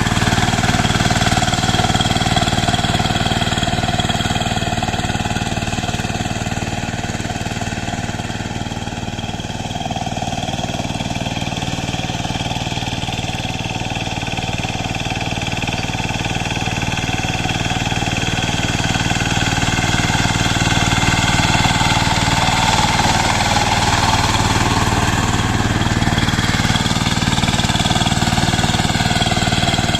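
Power tiller engine running steadily while working a rotavator, easing off a little about a third of the way in and growing louder again after the middle.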